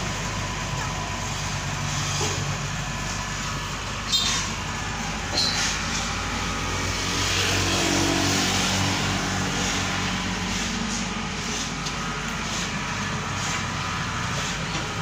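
A heavy vehicle's engine running steadily. There are two short sharp sounds about four and five and a half seconds in, and a slow rise and fall in the middle.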